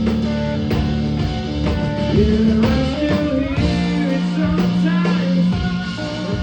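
Live blues-rock band playing: a lead guitar plays sliding, gliding notes over bass and steady drum hits.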